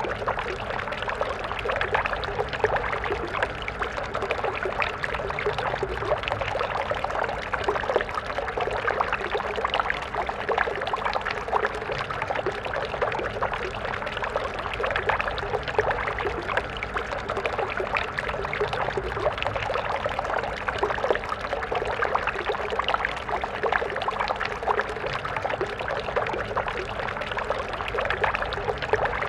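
Stream water flowing steadily over rocks, a continuous splashing babble.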